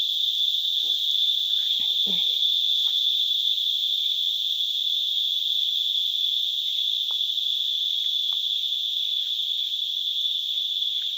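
Loud, steady, high-pitched ringing chorus of daytime insects, unbroken throughout.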